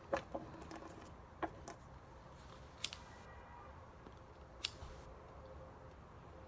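A few scattered sharp clicks and taps, several close together near the start and then spread out a second or two apart, over a faint steady background hiss.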